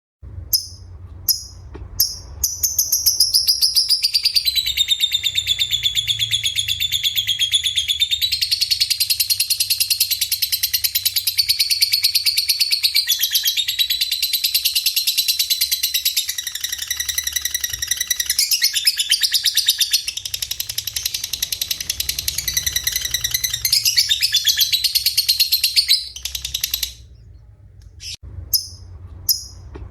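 Recorded songbird singing. It opens with a few short chirps, then runs into a long, unbroken stream of rapid high trills and warbles that breaks off near the end and resumes as separate chirps. A steady low hum sits underneath.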